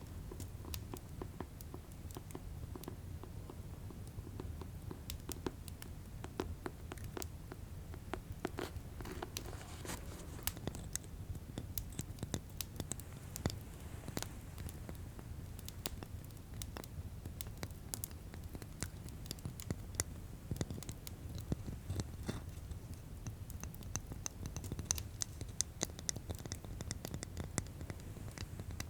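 ASMR tapping on objects: many quick, irregular taps, fast and slow, over the steady low rumble of fireplace ambience.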